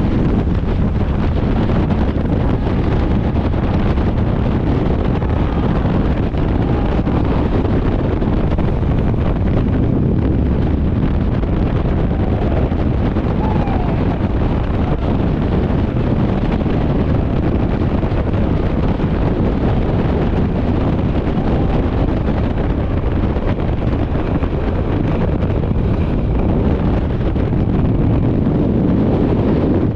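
Loud, steady wind rushing over the microphone during a skydive, an even roar without any engine tone.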